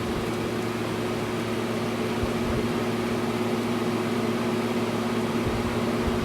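Air conditioner running with its compressor just kicked on: a steady hum with even fan-air noise.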